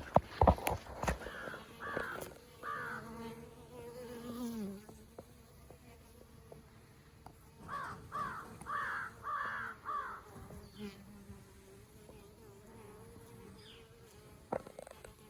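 Honeybees buzzing around their newly housed colony: a steady, wavering hum. A few knocks come in the first second, and a bird calls twice in short runs, three calls and then five.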